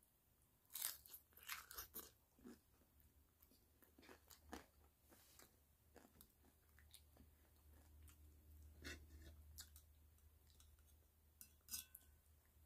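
Someone chewing and crunching a crisp fried tortilla tostada shell close to the microphone, a series of sharp crackling crunches that is loudest about a second in and again near the end.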